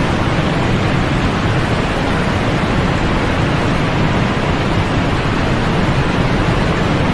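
Steady white noise played as a sleep aid: an even, unbroken hiss that does not change, heavier in the low end and softer in the highest pitches.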